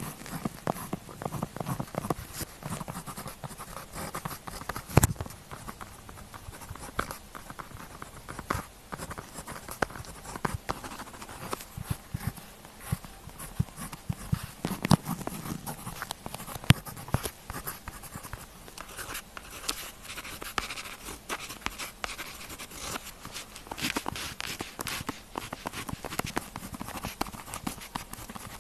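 Pen tip scratching and tapping on paper, close to the microphone, in quick irregular strokes. A few sharper taps stand out, one about five seconds in and another past the middle.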